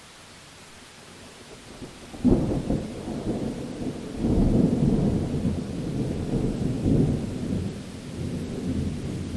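Rainstorm with thunder: a steady rain hiss, then about two seconds in a sudden thunderclap that rolls into a long, low rumble, swelling again twice before easing.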